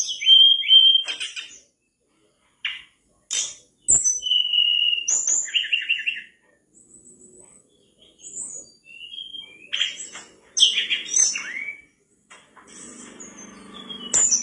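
Mangrove blue flycatcher (tledekan bakau) in full song: quick clear whistled phrases, with rising and falling notes and rapid chips, broken by short pauses.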